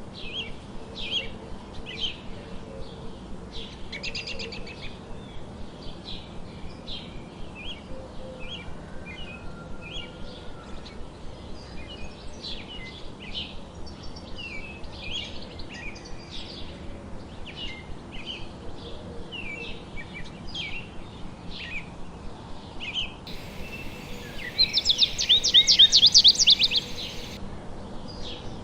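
Several songbirds chirping and calling, a steady run of short, high chirps. About three-quarters of the way through, one bird gives a loud, fast trill lasting about two seconds.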